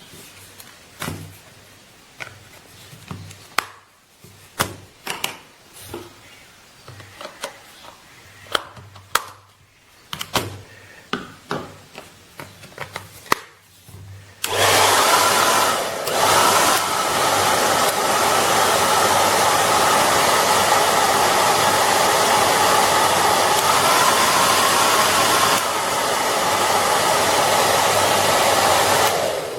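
Scattered clicks and knocks of handling. About halfway through, a Rowenta K/pro Stylist CV888L 2200 W AC-motor hair dryer is switched on and blows steadily. Its sound shifts slightly a few seconds before it cuts off near the end.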